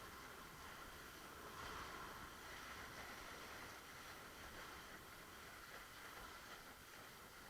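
Faint, steady rush of water and wind as a windsurf board sails across the water, swelling slightly about two seconds in.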